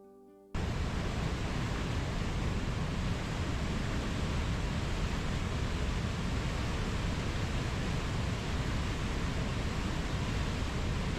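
A steady, even rushing noise of nature ambience, such as wind or running water, cutting in abruptly about half a second in and holding constant without surges.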